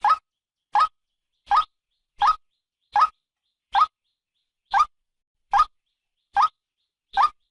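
Female white-breasted waterhen calling, a lure call used to draw waterhens to a trap: short rising notes repeated about every three-quarters of a second, ten in a row.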